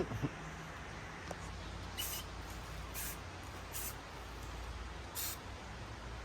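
Quiet outdoor ambience with a steady low rumble, a sharp knock at the very start and a few short scratchy scuffs or rustles a second or so apart.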